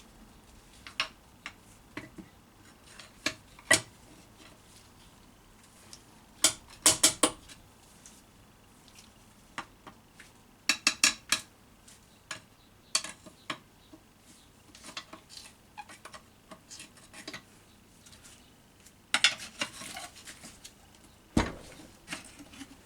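Metal hand tools clinking and scraping against a Honda Civic Type R EP3 gearbox during disassembly: scattered sharp metallic clicks that come in short clusters, with a dull knock near the end.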